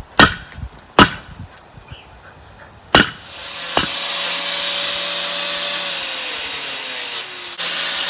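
Wood being worked while making a digging spade: three sharp chopping strikes about a second apart, then from about three seconds in a steady rasping noise like sawing, with a short break near the end.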